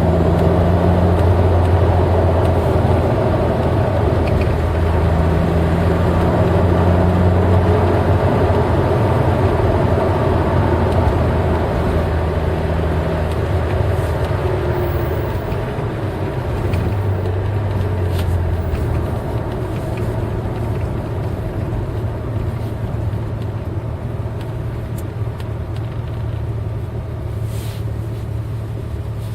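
Eight-cylinder car engine running at a steady speed while driving, with road noise; its pitch holds steady, and it grows slightly quieter towards the end.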